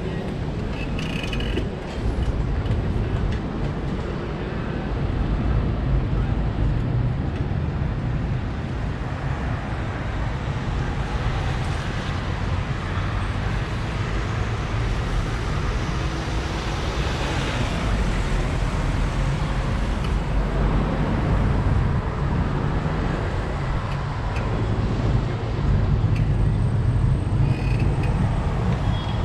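Wind rumbling over the microphone of a camera riding on a moving bicycle, over steady city street and traffic noise.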